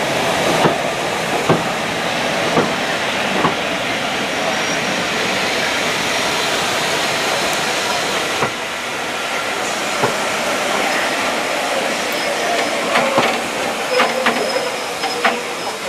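Heritage passenger coaches of a steam-hauled train rolling past at low speed: a steady rushing rumble from the wheels, broken by scattered clicks and knocks as they cross rail joints, with several in quick succession near the end.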